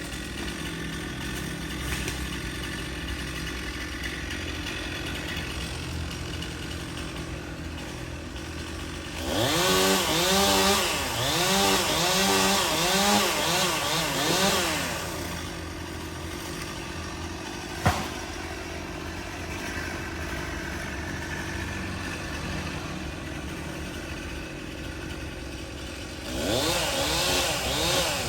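Chainsaw idling, then revved up and down in a run of quick throttle bursts for about six seconds, idling again, and revved once more near the end. A single sharp click comes about halfway through.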